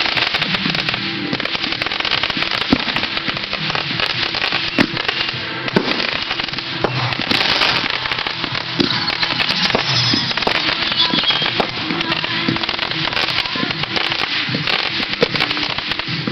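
Fireworks going off without pause, a dense crackling and popping with a few sharper bangs standing out about three, five and six seconds in. Music plays underneath.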